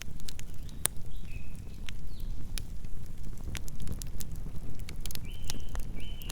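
Campfire burning: wood crackling with frequent sharp pops over a low steady rumble of the flames. A few short high chirps sound about a second in and again near the end.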